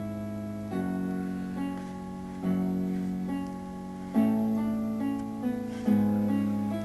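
Computer-composed background music: a plucked guitar sound playing slow chords, a new chord struck every second or two.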